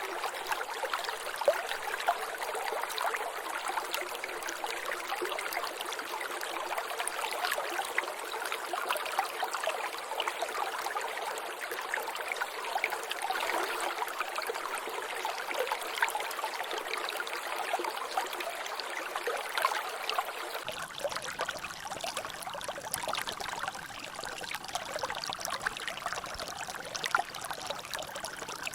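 Water trickling and dripping in a natural drainage channel: a steady wash of running water with many small splashing drops. About two-thirds of the way through, the sound shifts, gaining a low rumble and losing some of its brightness.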